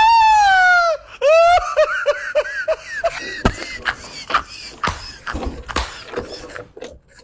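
A loud, high-pitched cry falling in pitch for about a second, then a burst of high laughter, followed by scattered knocks and clatter that die away near the end.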